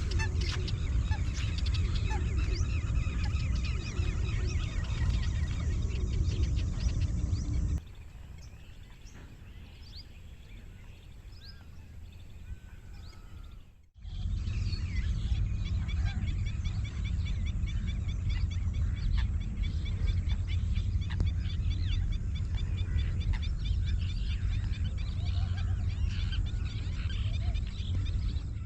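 Many waterbirds calling at once, a dense chatter of short calls, with wind rumbling on the microphone. The calls and wind drop to a quieter stretch from about 8 to 14 seconds in, then return.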